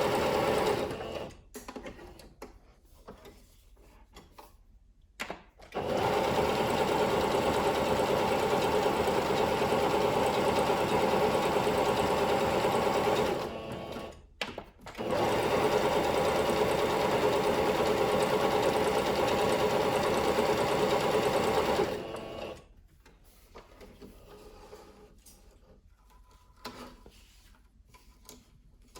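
Singer Curvy sewing machine running at a steady speed in spells: it stops about a second in, starts again after about five seconds, pauses briefly near the middle, and stops for good about seven seconds before the end, with faint handling noises in the quiet gaps.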